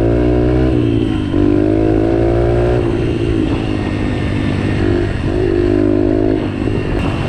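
2016 Yamaha 125 dirt bike engine running under throttle while riding a trail, its note climbing in runs and dropping back briefly about three times as the revs fall between pulls.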